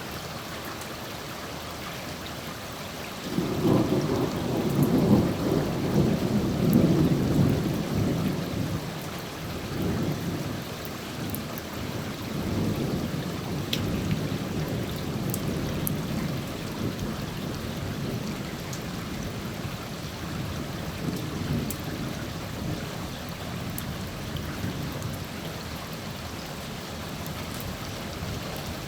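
Steady rain falling, with a roll of thunder that breaks in sharply about three seconds in. The thunder is loudest for the next few seconds, then rumbles on in several weaker swells and slowly fades.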